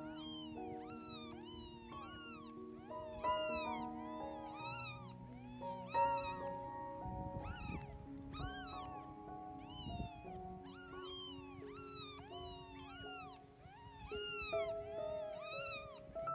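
Kittens mewing over and over in high, thin cries, about one or two a second and sometimes overlapping. Each mew rises and then falls in pitch. Background music with held notes plays underneath.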